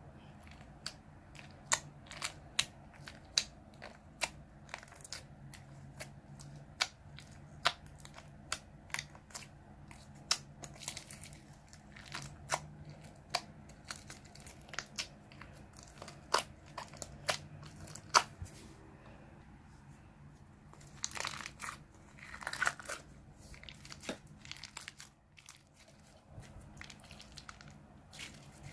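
Slime being pressed and worked by hand, making a run of sharp pops and crackles, about one or two a second. Two-thirds of the way in these give way to longer crinkling, crackly stretches.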